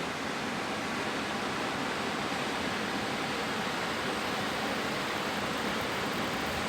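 Steady, even rushing noise of a train running, heard from inside the carriage.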